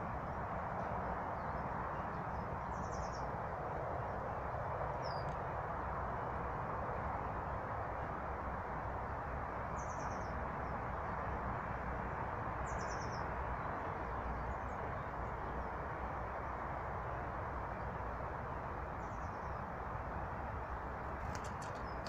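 Small wild birds giving short, high chirps, each a quick run of a few notes, about five times, over a steady rushing background noise. A few faint clicks come near the end.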